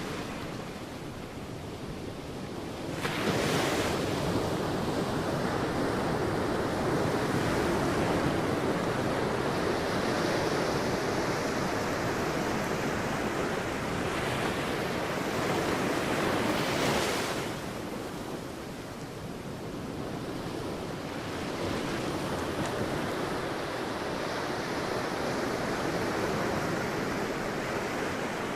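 Sea waves breaking on a beach: a wave surges up about three seconds in and rushes for a long stretch before falling away, then a softer wash of surf follows.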